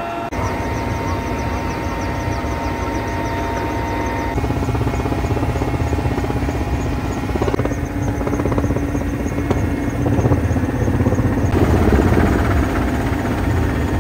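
A helicopter, likely one working the forest fire, running as a loud steady rumble. The sound changes abruptly a few times where separate clips are cut together.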